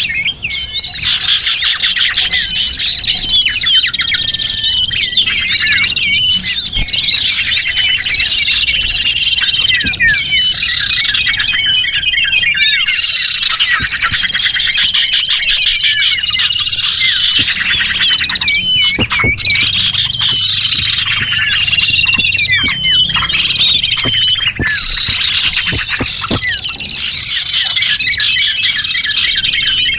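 A dense, continuous chorus of many small songbirds chirping, trilling and whistling at once, several calls overlapping without a break: a lure recording of small birds used for bird trapping.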